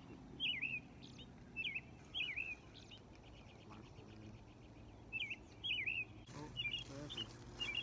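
Birds calling repeatedly, short sharp chirps about once a second, with a brief buzzy trill a few seconds in. A rush of noise comes in near the end.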